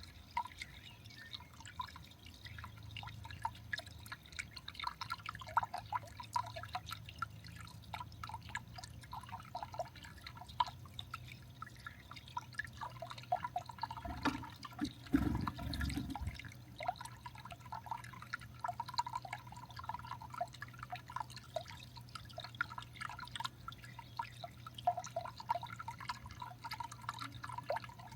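Water dripping and trickling in irregular small drops over a steady low hum, with a dull low thump about halfway through.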